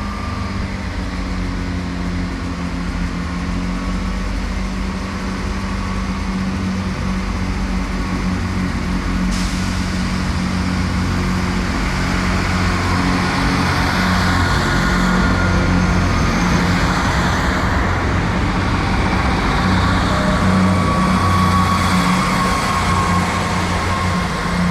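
Diesel multiple-unit passenger train running at the platform, its engine hum steady and growing louder about halfway through, with thin whining tones joining in the second half.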